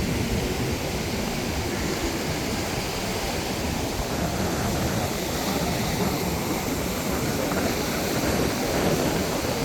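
Steady rushing noise of ocean surf, mixed with wind buffeting the phone's microphone.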